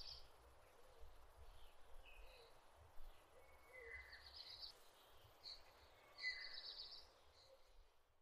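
Faint outdoor birdsong over a low rumble: a bird call repeating about every two and a half seconds, fading out near the end.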